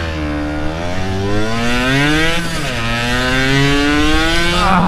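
Motorcycle engine accelerating: its pitch climbs, drops at a gear change about halfway through, then climbs again.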